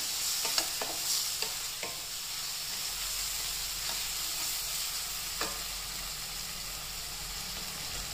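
Chopped tomatoes, onion and spices frying in oil in a stainless steel kadhai, sizzling steadily as they cook down until the tomatoes soften. A wooden spatula stirs and knocks against the steel pan several times in the first couple of seconds and once or twice more after that.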